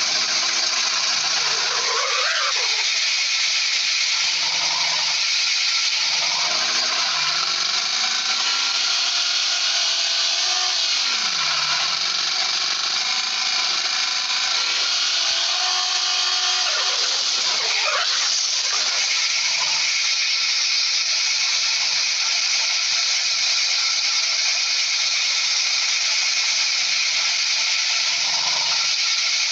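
A power tool running steadily, its pitch dipping and recovering twice, about two seconds in and again past the middle.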